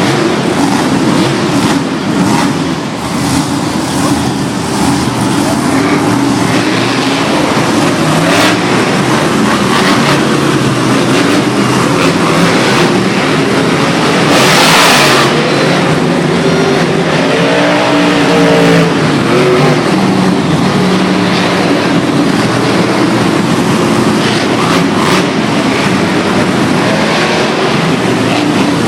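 Truck engines running loudly and steadily, with a short, loud hiss about halfway through and the engine pitch rising and falling soon after.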